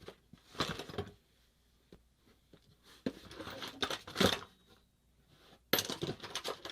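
Rummaging through loose parts and their packaging: separate bursts of rustling and clattering, with short quiet gaps between.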